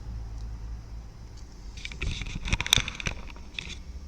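A cluster of sharp clicks and scraping from handling the opened speaker and its control buttons, starting about two seconds in and lasting about two seconds, over a steady low hum.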